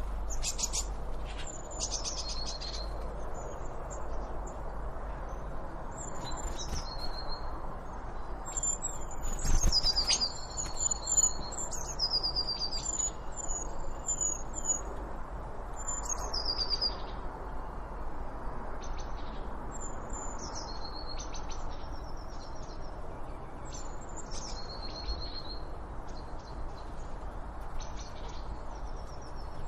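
Small birds chirping and singing in short, high, repeated phrases that drop in pitch, over a steady low background rumble. A brief knock sounds about a third of the way through.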